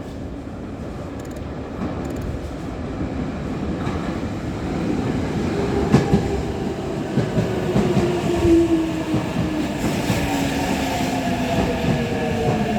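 Toyo Rapid Railway 2000 series electric train pulling into an underground station, its wheels knocking over rail joints. From about five seconds in, a whine from the drive falls steadily in pitch as the train brakes and slows, and the train grows louder as it draws in.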